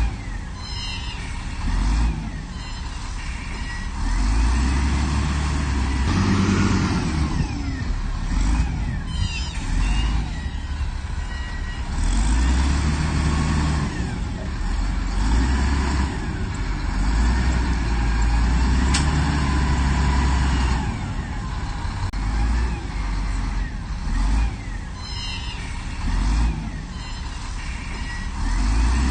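Diesel engine of a heavy earthmoving machine working. Its deep rumble swells and eases every few seconds as it takes load, with high gliding squeals over it.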